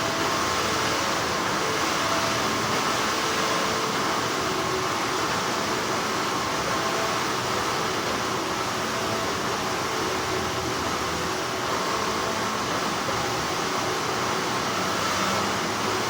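Continuous hum of textile factory machinery, a steady even whirring with a few faint constant tones running under it.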